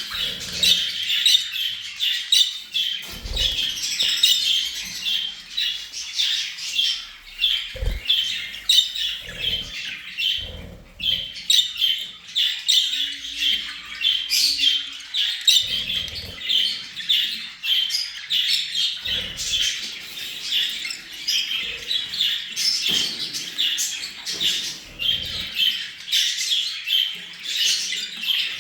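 A flock of small pet parrots chattering, with many overlapping chirps and squawks in a constant din. A few dull thumps sound under the chatter about three and eight seconds in.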